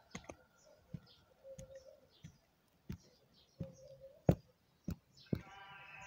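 A string of about ten light clicks and knocks, spaced irregularly, with the sharpest one a little past four seconds in: small objects being handled and set down. Background music comes back in near the end.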